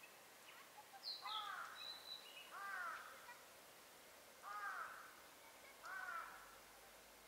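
A bird giving four short calls, each rising then falling in pitch, spaced one to two seconds apart. A thin higher whistle sounds once about a second in.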